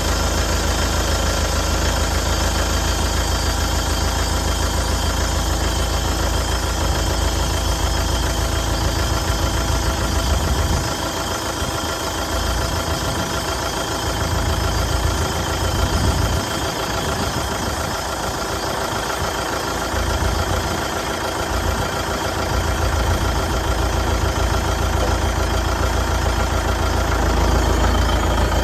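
Mahindra 4025 tractor's diesel engine idling steadily just after starting, its low rumble wavering for a while in the middle.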